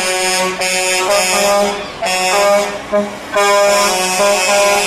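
Truck air horns sounding in several loud, overlapping blasts of different pitches, starting and stopping every second or so.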